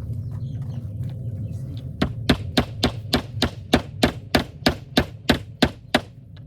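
A hammer driving a staple, about fourteen quick, even blows at roughly three a second, starting about two seconds in. The staple is not going in.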